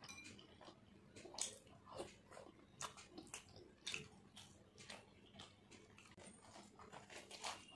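Faint, close-miked wet eating sounds: irregular lip smacks and sticky chewing clicks as mutton and oily mutton fat curry are eaten by hand.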